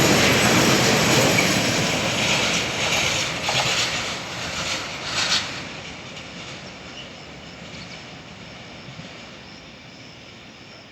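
Container freight train rolling past with steady wheel and rail noise and a few brief sharper clatters in the middle, then fading away as it recedes.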